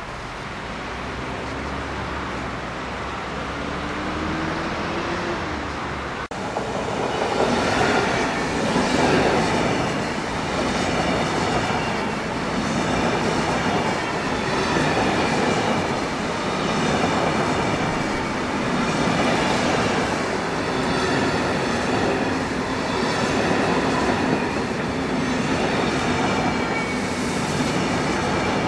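SNCB double-deck passenger train rolling past on steel rails. A faint rumble gets much louder about six seconds in as the coaches go by, rising and falling every two to three seconds, with a high whine over the running noise.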